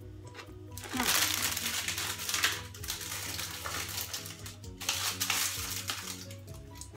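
Background music, with crinkling noise in two stretches, about a second in and again near the five-second mark, from plastic produce packaging being handled.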